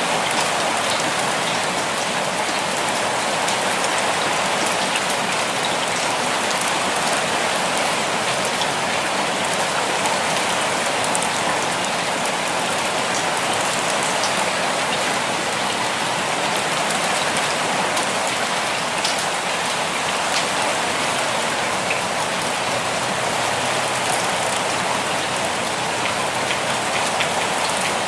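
Steady rainfall, an even hiss of rain on a surface, with scattered drops ticking faintly through it.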